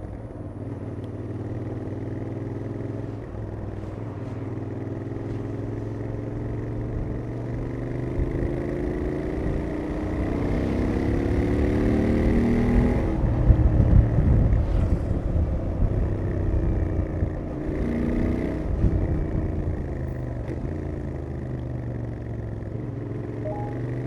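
Royal Enfield Interceptor 650's parallel-twin engine through its stock exhaust, heard from the rider's position while riding: the revs climb several times and drop back at the gear changes. It is loudest about halfway through, with a heavy low rush under the engine note.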